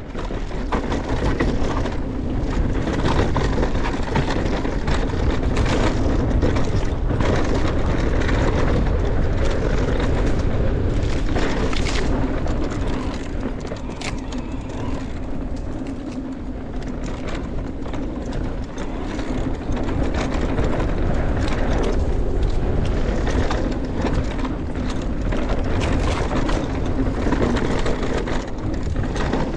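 Mountain bike descending a dirt trail at speed: tyres rolling over dirt and loose rocks, frequent clicks and knocks from the bike rattling over bumps, and wind noise on the mic.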